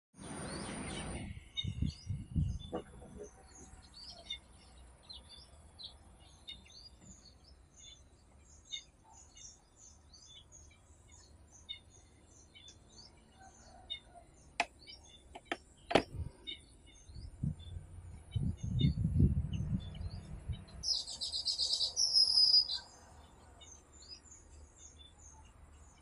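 Weaver birds chirping in short, high, scattered notes, with a louder burst of chattering about 21 seconds in. Two sharp clicks near the middle and a low rumble just after them.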